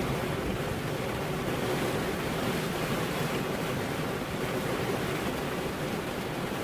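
Rain falling steadily, an even hiss with no thunder or other distinct events.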